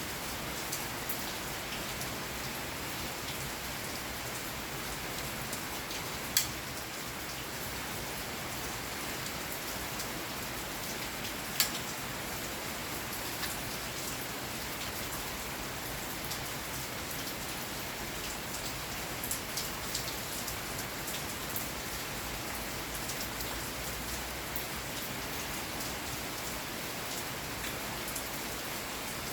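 Steady rain falling, an even hiss with scattered sharper drop strikes. Two drops hit noticeably louder, about six and about eleven seconds in.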